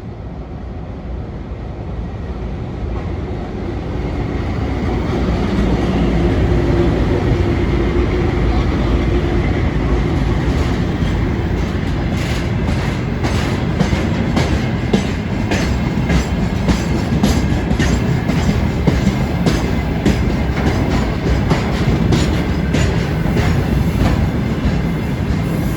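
VL10U electric locomotive hauling a freight train past: a rumble that grows louder over the first several seconds, then steady wheel noise with the wheels clicking over rail joints as the wagons roll by.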